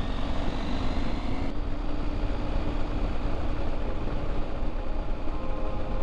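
A motorcycle riding at steady road speed, its engine running under heavy wind and road noise.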